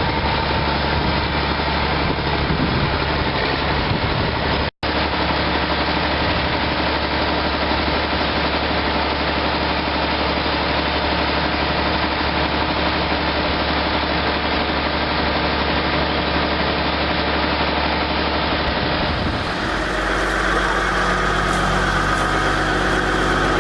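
Tractor engine running steadily, with a split-second dropout about five seconds in and a change to a different engine sound near the end.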